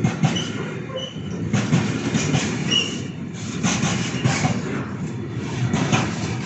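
A train passing close by, its wheels clattering over the rails in repeated surges, with a few brief high wheel squeals.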